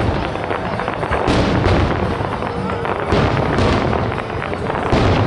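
Fireworks going off in close succession: a dense, continuous run of bangs and crackle, with sharper reports about a second in, around the middle and near the end.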